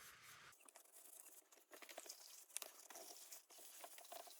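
Shop paper towel rubbed by hand over a plastic lantern lens to polish it with Brasso: faint, irregular scratchy rubbing and crinkling.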